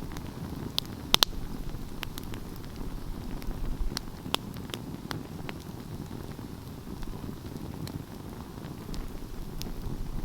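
Wood fire burning: a low steady rumble of flames with scattered sharp crackles and pops, a close pair of loud pops about a second in.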